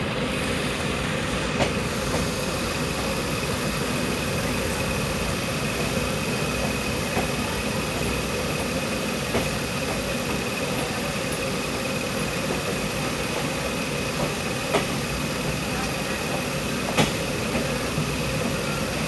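A passenger train running slowly, heard as a steady rumble and noise from inside the carriage. A few sharp clicks stand out, once near the start and twice near the end.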